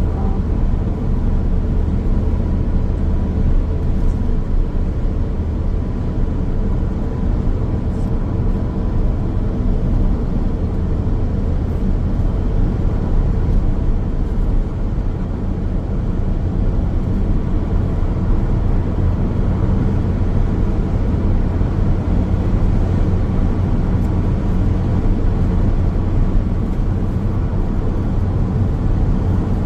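Steady road noise of a car driving along a highway: a constant low tyre-and-engine rumble with a faint steady hum above it.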